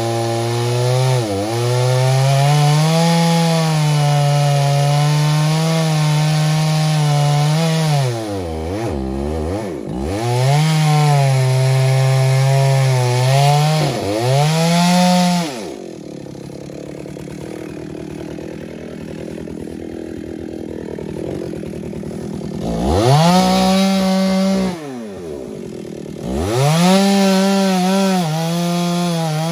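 Chainsaw cutting wood, its pitch sagging and recovering again and again as the chain bites. In the middle it drops back to a quieter, lower running for several seconds, then revs up near the three-quarter mark and goes back to cutting.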